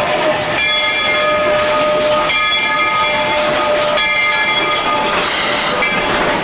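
Steam locomotive whistle blowing three long blasts in a row, each about a second and a half, with a short toot near the end, over the steady noise of the train.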